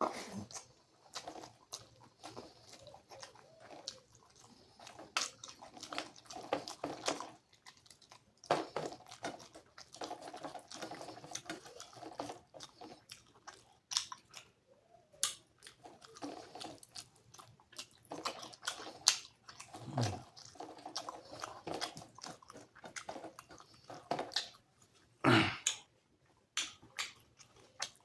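Close-up chewing and mouth sounds of someone eating rice with curry by hand: wet smacking and irregular clicks, with a louder bite or thump about twenty seconds in and another about twenty-five seconds in.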